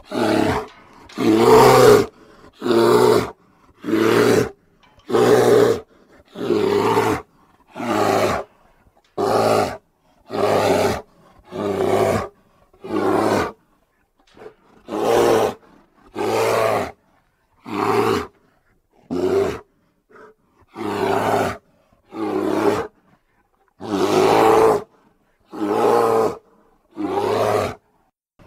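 A bear's roars from an animated film's sound effects, a string of about twenty short roars, each under a second long, separated by short silent gaps.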